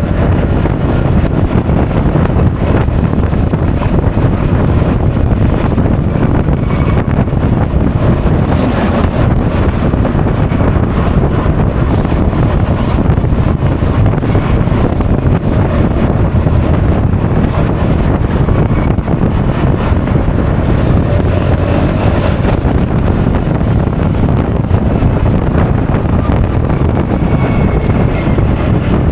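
Steady, loud wind buffeting on an action camera's microphone while riding a Honda Forza 350 scooter at speed, with the scooter's running and road noise mixed underneath.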